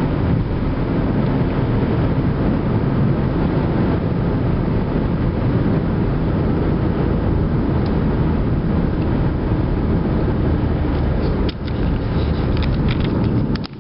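Car driving along a road: a steady low rumble of engine and tyre noise. A few sharp clicks near the end.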